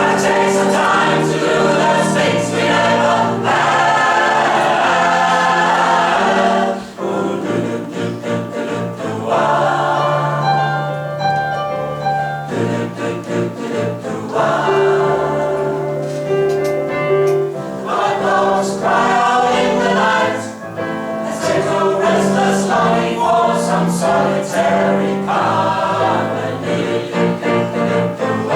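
A choir singing in several-part harmony, with held chords that change every few seconds.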